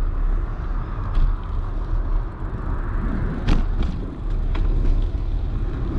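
A bicycle being ridden, with steady deep wind rumble and tyre noise, broken by a few sharp knocks or rattles from the bike going over bumps, the loudest about three and a half seconds in.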